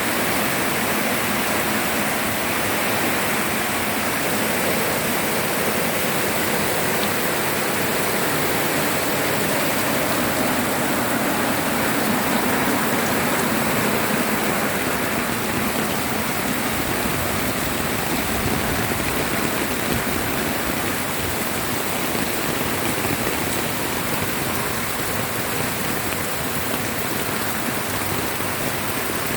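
Heavy rain falling while flash-flood runoff water rushes past, a steady, unbroken wash of water noise.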